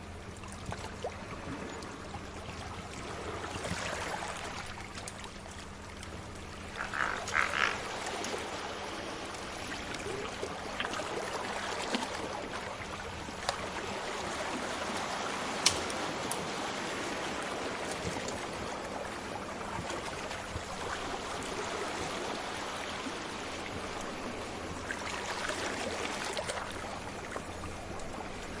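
Sea waves washing in a steady, swelling hiss, with occasional sharp pops of a crackling fire. A brief louder patch comes about seven seconds in.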